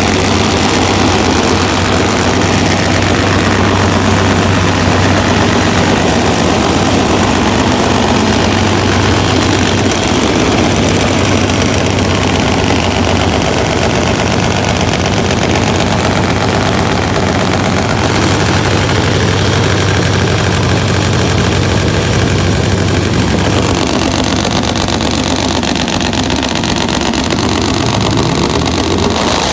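Nitro-burning drag motorcycle engine idling loudly and steadily, its low note shifting slightly about three-quarters of the way through.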